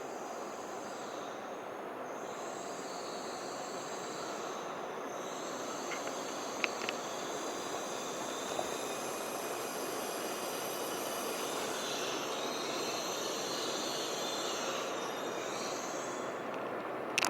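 Nishi-Kyushu Shinkansen Kamome N700S train moving along the station platform: a steady rush that slowly grows louder, with high whining tones swelling in the second half. A couple of sharp clicks come about six and a half seconds in.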